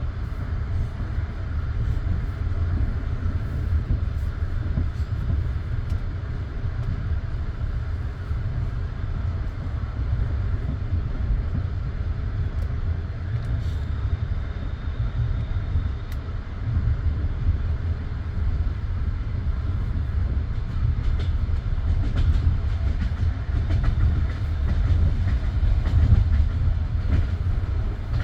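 Passenger train carriage rolling along the track, heard from on board: a steady low rumble of the wheels with scattered light clicks and clatter from the rails.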